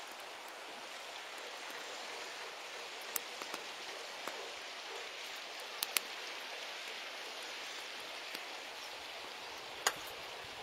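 Wood fire burning in a Snow Peak fire stand: a steady hiss with a few sharp crackling pops from the wood, two in quick succession about six seconds in and the loudest near the end.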